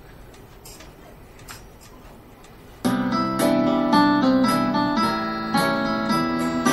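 Quiet room tone with a couple of faint ticks, then about three seconds in a backing track starts abruptly: a strummed acoustic guitar with piano keeping a steady beat, the instrumental intro to a song.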